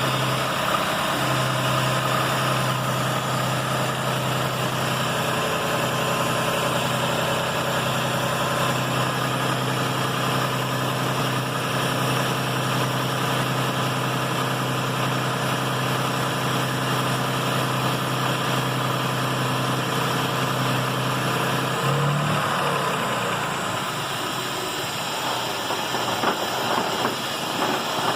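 Lexus RX 400h hybrid's 3.3-litre V6 engine idling in Park with a steady hum. Near the end the sound changes and a rattle sets in. It is the running-down rattle that appeared after a spark plug change, cause unknown to the owner.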